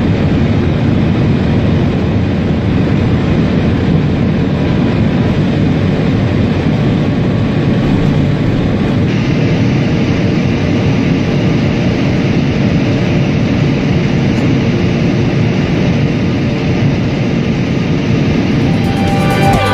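Train running at speed: a steady, deep rumbling noise of wheels and air. The higher hiss drops a little about nine seconds in.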